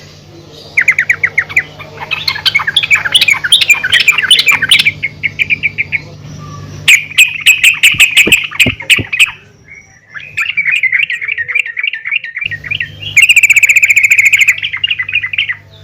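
Female yellow-vented bulbul (trucukan) calling in fast chattering runs of short, high notes, several bouts with brief pauses between them.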